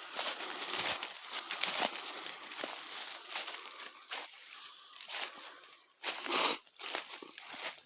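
Footsteps crunching through dry leaf litter and twigs on a forest floor, in uneven steps, with one louder crunch about six seconds in.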